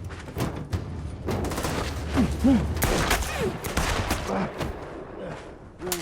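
Film shootout: a rapid string of gunshots firing in quick succession, over a low steady drone, with a few short cries in the middle.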